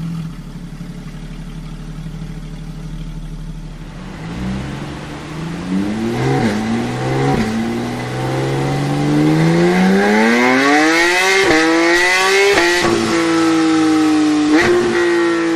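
Porsche 911 GT3 RS's naturally aspirated 4.0-litre flat-six running steadily, then accelerating hard about four seconds in. Its pitch climbs, broken by several quick gear changes that each drop it briefly, up to a high-pitched note that holds and eases down slowly near the end.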